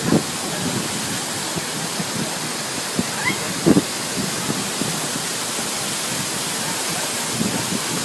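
Waterfall rushing with a steady, even roar of falling water, broken by a brief knock nearly four seconds in.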